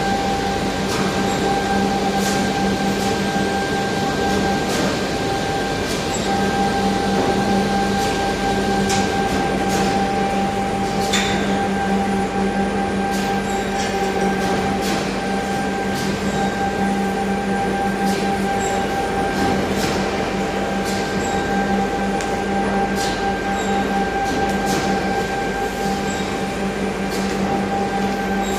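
A machine running with a steady, unchanging hum, with irregular sharp clicks and crackles over it.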